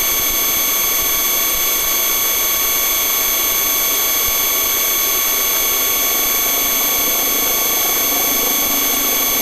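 Police helicopter's turbine engines and rotors heard from inside the aircraft: a steady noise with a constant high-pitched whine on top.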